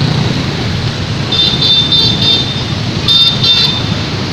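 Road traffic on a flooded road: a steady rumble of vehicle engines and road noise, with two short runs of high beeps, the first about a second in and the second near three seconds.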